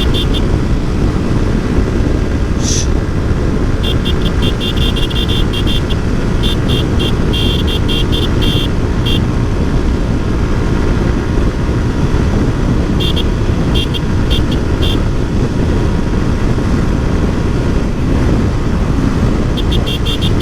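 Wind buffeting the microphone of a motorcycle riding at highway speed, over 100 km/h, a steady low rush of air mixed with engine and road noise. Several short runs of fast, high clicking come and go over it.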